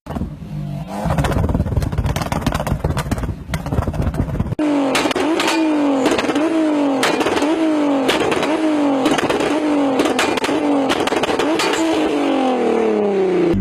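Car engine with a low rumble and sharp exhaust pops, then about four and a half seconds in it is revved repeatedly, the pitch climbing and dropping back about every 0.7 s, and near the end it winds down in one long falling tone.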